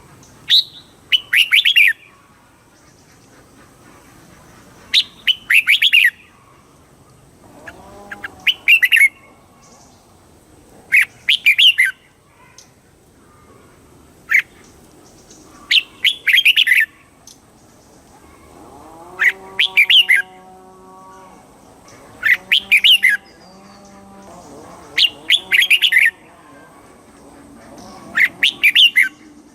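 Red-whiskered bulbul singing: short, clear, warbling song phrases repeated about every three seconds, the song that keepers play to caged bulbuls to stir them up.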